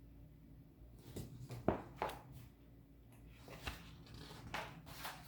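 Pages of a picture book being turned and handled: a handful of soft rustles and light taps, spread unevenly.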